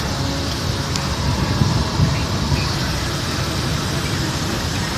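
Steady jet airliner engine noise from a Boeing 737 during takeoff, with a sharp click right at the start.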